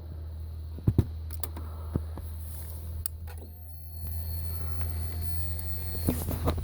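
Suzuki Hayabusa GSX1300R with the ignition switched on before starting: a few sharp clicks, then the electric fuel pump priming as a thin steady whine of about three seconds that stops just before cranking. A low steady hum runs underneath.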